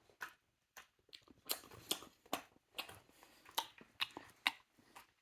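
A Cavalier King Charles spaniel chewing a piece of banana, with irregular wet smacks and clicks of the mouth about twice a second.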